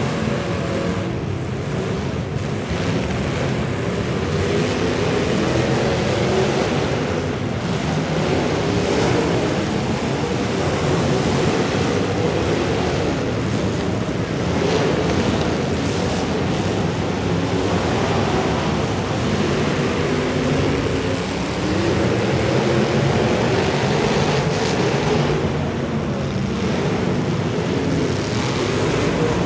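Demolition derby car engines running in a continuous loud din, the level swelling and easing as they rev.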